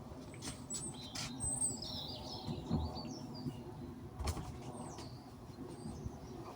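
A bird chirping briefly about a second and a half in, over a low steady background rumble, with several short knocks and clicks.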